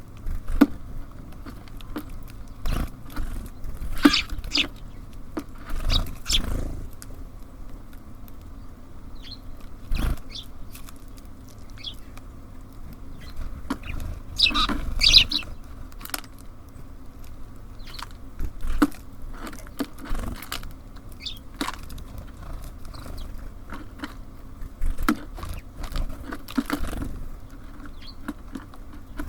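Small birds at a feeder: irregular taps and knocks of pecking and landing on the feeder, with a few short high chirps, over a steady low hum.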